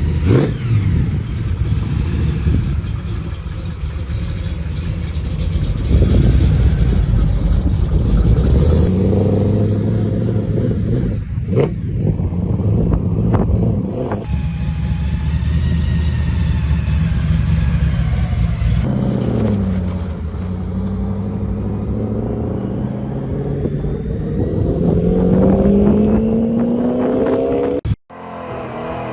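Gasser drag cars' engines running loud and revving, with pitch rising as a car accelerates around 9 seconds in and again over the last ten seconds. A few sharp cracks come near the middle.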